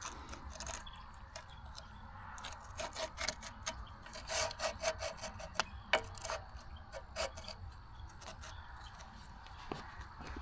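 Heavy steel pieces being handled and set in place: irregular metal-on-metal scraping with scattered light clinks, a few of which ring briefly.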